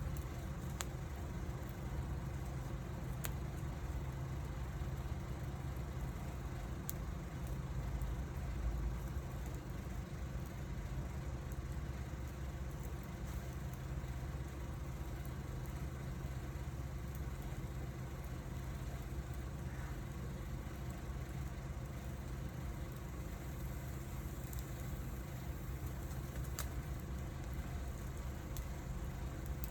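Wood fire burning, with occasional sharp crackles and pops over a steady low rumble.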